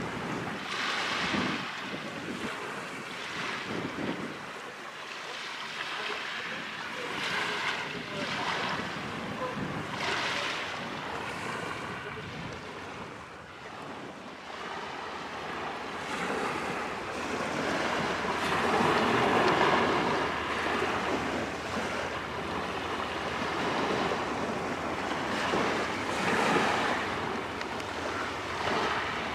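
Small waves washing onto the shore again and again every couple of seconds, with wind buffeting the microphone.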